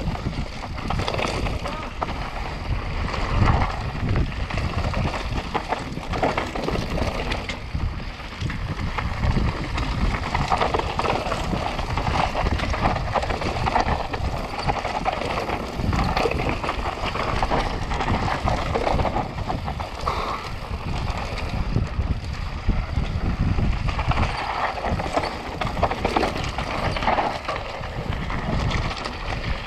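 Mountain bike descending fast over rough ground, heard from a camera on the rider: steady wind rush on the microphone mixed with the continuous rattle and clatter of the bike and tyres over rocks and ruts.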